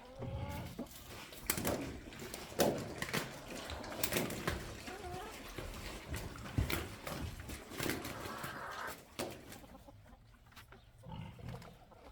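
Farm animals, with chickens clucking, among scattered knocks and rustles.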